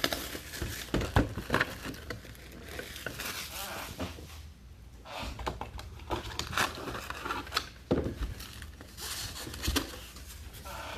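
Trading-card packaging being handled: scattered clicks and taps with short bursts of crinkling and rustling from cardboard and pack wrappers.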